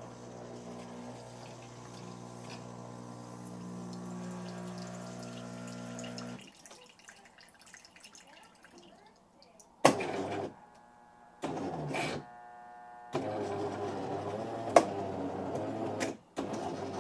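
Jura C9 automatic coffee machine running its rinse cycle: the pump hums steadily for about six seconds, stops, then runs again in several shorter bursts with a few sharp clicks, pushing rinse water through the spout.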